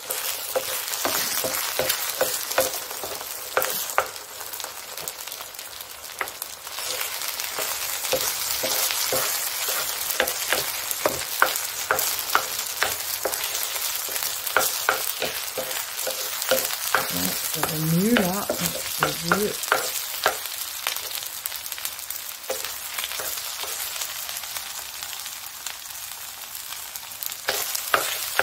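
Eggs frying and sizzling beside fried rice and shrimp in a stone-coated frying pan while a wooden spatula breaks up and stirs them, with frequent clicks and scrapes of the spatula against the pan.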